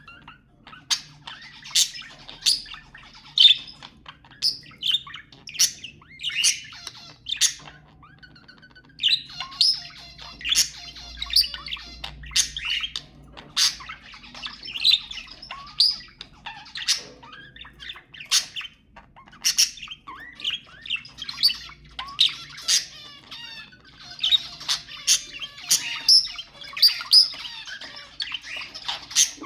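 Budgerigars chattering, with frequent sharp squawks and chirps and longer runs of continuous warbling chatter about ten and twenty-five seconds in.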